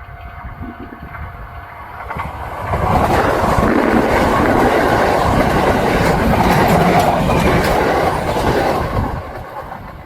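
Kintetsu electric train passing, its wheels clattering over the rail joints. The sound swells about two seconds in, holds loud for some six seconds, then fades near the end.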